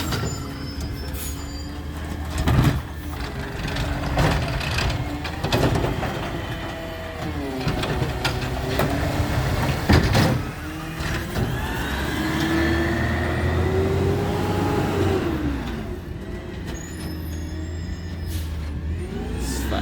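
Recycling truck running at work, its engine humming steadily under a whine that rises and falls in pitch. Several sharp knocks and clanks from the truck come through, the loudest about ten seconds in.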